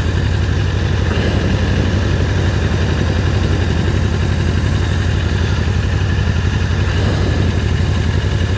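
Can-Am Spyder's Rotax three-cylinder engine running steadily, a constant low hum with a steady rush of wind and road noise over it.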